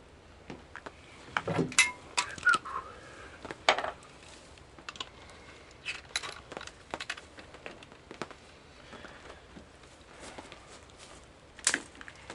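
Scattered clinks, knocks and rattles of small hard objects being handled, a few with a short metallic ring, loudest in a cluster about two seconds in and again near the end.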